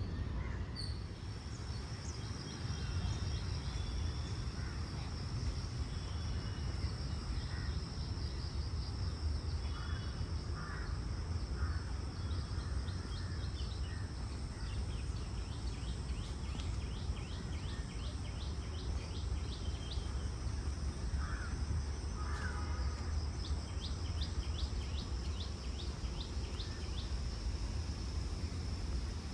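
Park ambience: a steady high insect drone and bird chirps, with rapid trilling runs of calls in the middle and again near the end, over a low steady background rumble.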